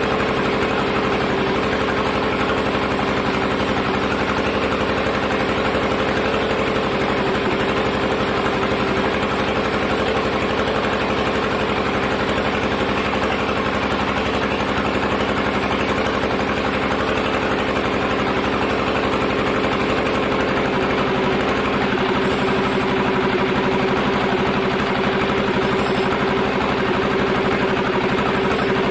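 Sawmill log-cutting machinery running with a steady, engine-like drone, its pitch shifting slightly a little over two-thirds of the way through.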